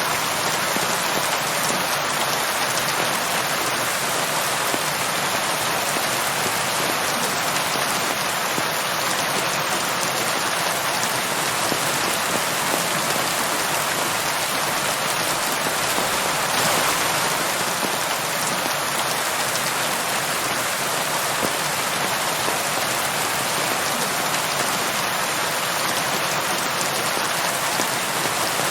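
Steady, heavy rain falling on a surface, an even hiss of dense drops with a brief swell about halfway through.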